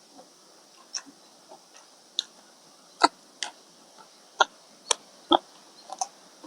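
Close-up eating sounds: irregular sharp smacks and clicks of a mouth chewing, about ten in a few seconds, the loudest through the middle and second half.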